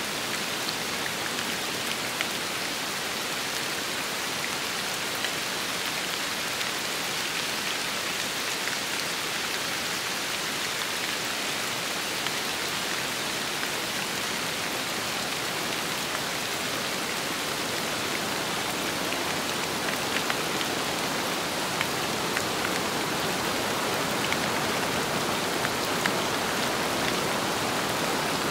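Steady rain with wind, an even hiss dotted with sharper individual drop ticks, swelling slightly louder in the second half.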